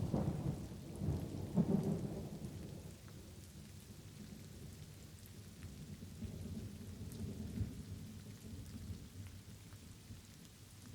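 Light rain falling steadily with rolling thunder: a loud rumble in the first two seconds, and a second, fainter rumble a few seconds later.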